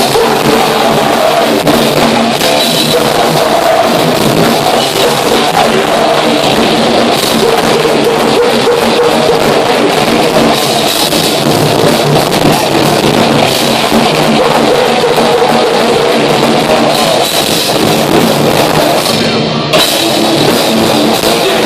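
Heavy metal band playing live, with loud distorted guitars and a pounding drum kit, recorded loud and harsh. There is a brief break in the cymbals and highs near the end before the band crashes back in.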